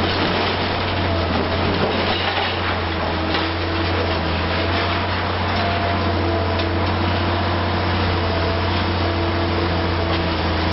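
Liebherr R 960 high-reach demolition excavator running steadily: a deep, even engine hum with a steady higher whine over it, and faint scattered crackles.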